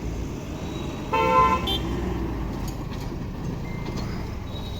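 A short horn toot with two close tones about a second in, over a steady low rumble of traffic at a railway level crossing.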